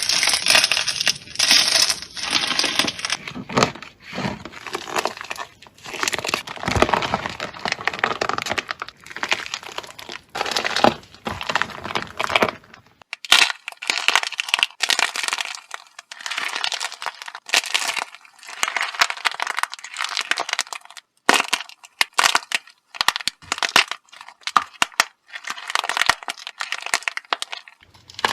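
Crunchy slime with a fragile hardened outer layer being pressed and crushed, giving dense crisp crackling and cracking over a soft squishy core. About halfway through the sound changes to a thinner, lighter crackle.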